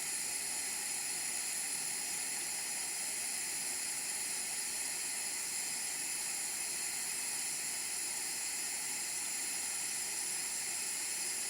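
Tilley X246B paraffin pressure lamp burning, its pressurised burner giving a steady, even hiss.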